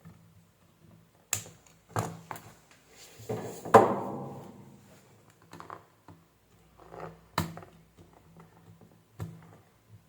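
Tools and parts being handled on a workbench: scattered clicks and knocks, the loudest a knock about four seconds in with a short ringing tail.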